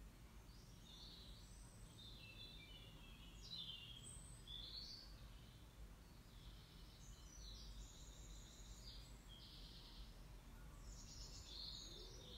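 Faint birdsong: several spells of quick, high chirping phrases with short pauses between them, over a low steady room hum.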